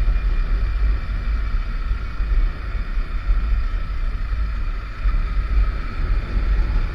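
Motorcycle ride at speed: wind buffeting the microphone in a heavy, uneven rumble over the steady noise of the bike running.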